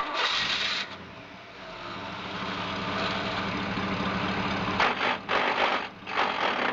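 2008 Chevrolet Malibu's 2.4 L Ecotec four-cylinder engine running steadily at idle. A sharp burst of noise about a second long opens it, the idle grows a little louder, and several short rushing noises come over it in the last two seconds.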